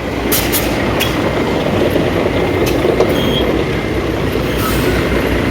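Heavy dump truck's diesel engine running steadily, with a few short knocks and rattles from the truck.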